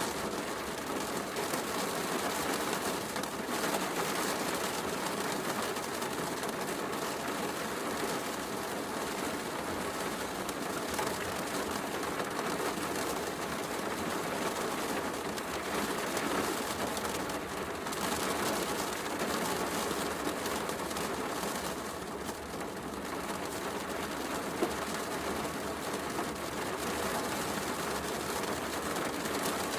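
Heavy rain falling steadily, mixed with a fireplace crackling. There is one sharper pop from the fire a little past three-quarters of the way through.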